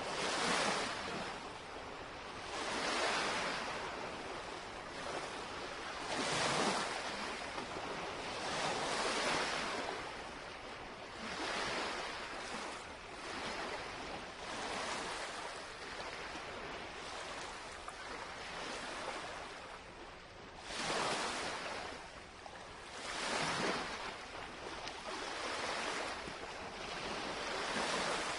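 Small lake waves lapping against the shoreline, a soft wash that swells and fades every two to three seconds.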